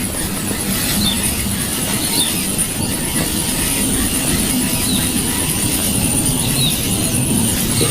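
Steady low rumbling noise with a thin high steady whine, and faint short chirps now and then.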